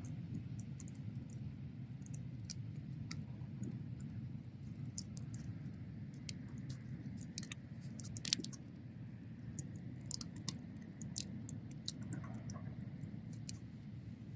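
Wood bonfire burning: a steady low rumble of flame with scattered sharp crackles and pops, the loudest pop about eight seconds in.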